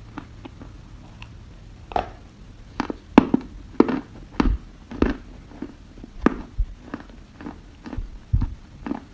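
Dry edible clay being bitten and chewed close to the microphone: a series of sharp, irregular crunches, one or two a second.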